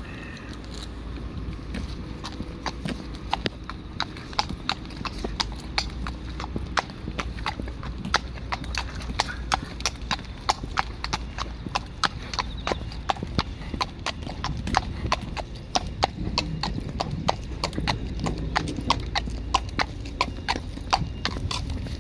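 Hard, clicking footsteps at a walking pace, a few steps a second, over a steady low rumble.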